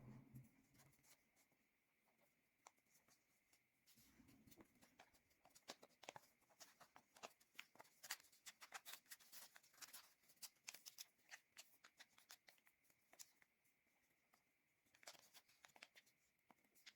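Faint crinkling and creasing of a sheet of origami paper being folded into a crane: many small quick ticks and rustles, busiest in the middle stretch and thinning out near the end.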